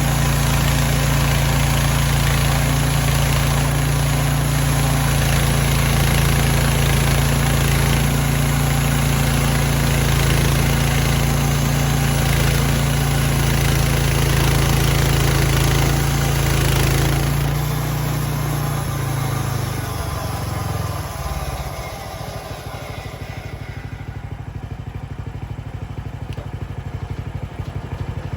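Sawmill engine running steadily at high speed. About seventeen seconds in it slows, and it settles to a low idle with a rapid putter.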